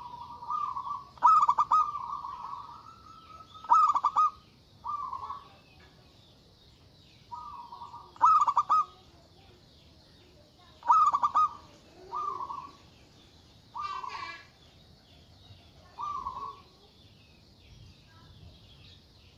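Zebra dove (perkutut) cooing: a string of loud phrases of short, rapidly trilled notes around 1 kHz, one every couple of seconds, fading out near the end. A faint high chirping runs underneath.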